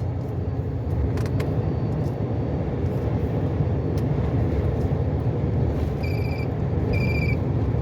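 Volvo truck cab interior while driving on the highway: steady low engine and road rumble. Near the end, two short electronic beeps about a second apart.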